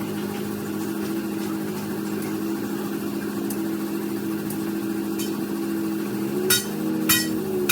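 A car engine running steadily at idle. Near the end come a few sharp clicks or knocks.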